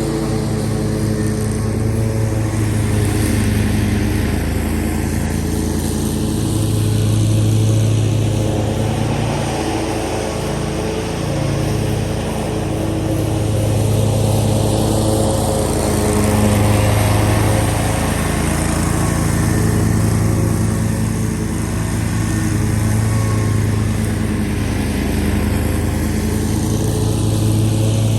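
Zero-turn lawn mower engine running steadily while mowing, its level swelling and easing gently every few seconds.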